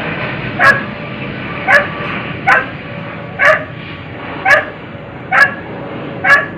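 An animal's short, pitched calls, repeated seven times at an even pace of about one a second over a steady low background hiss.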